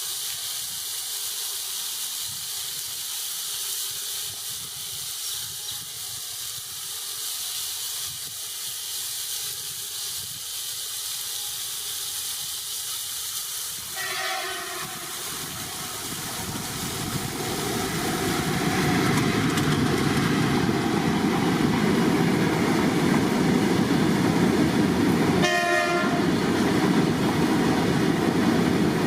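Goods train approaching and passing: a steady hiss at first, then a short horn blast about halfway through, after which the rumble of the train grows louder and runs on, with a second short horn blast near the end.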